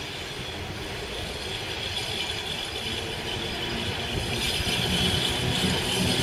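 PKP class ET22 six-axle electric locomotive with a train of double-deck coaches approaching, growing steadily louder. The wheels run on the rails, with a steady hum from the locomotive that strengthens as it nears.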